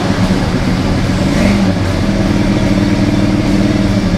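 1979 Chrysler Cordoba's V8 running at a fast idle on a newly fitted Edelbrock AVS2 carburetor. Its pitch rises at the start and again briefly about a second and a half in, then holds steady. The engine is stuck on high idle.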